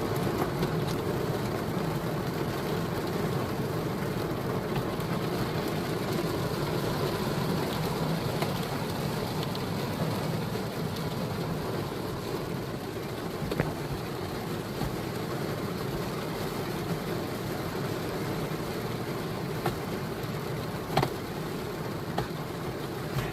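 Steady rain, an even dense hiss, with a few sharp taps of drops near the end.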